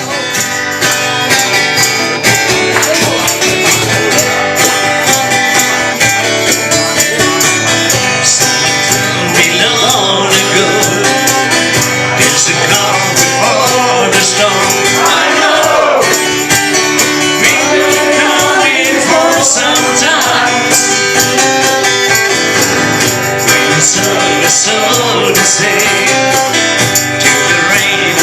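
Live acoustic band playing: strummed acoustic guitars with tambourine, and a wavering melody line over them.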